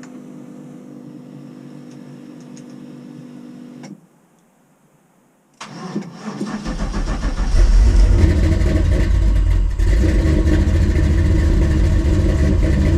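Cold start of an LS-swapped square-body Chevy truck's 6.0 V8 at about 20 °F: after a faint steady hum and a short silence, the starter cranks about six seconds in, the engine catches within a second, and it settles into a loud, steady fast cold idle.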